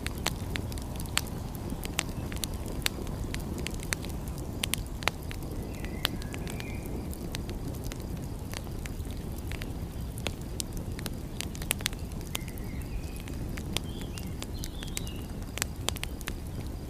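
Wood fire crackling, with irregular sharp pops and snaps over a steady low rumble. A few faint high chirps come through about six seconds in and again later.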